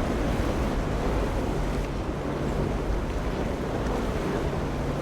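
Boat engines running over waves washing in rough water, with wind buffeting the microphone; a steady low engine drone comes in at about a second and a half.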